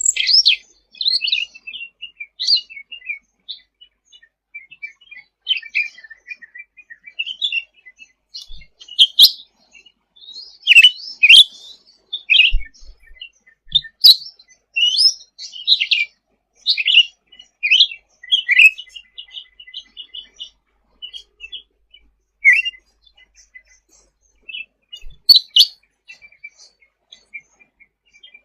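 A cucak ranting songbird singing: a run of quick, high chirps and short whistled sweeps in irregular phrases, with brief pauses between them and a few sharp, clipped notes.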